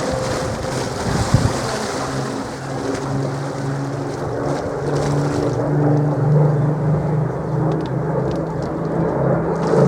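A Spitfire's piston engine drones steadily, its pitch wavering slightly. A brief knock sounds about a second and a half in.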